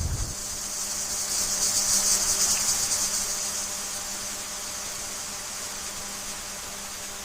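Steady, high, finely pulsing chorus of insects trilling, swelling about two seconds in and then easing slightly, with a faint low hum underneath.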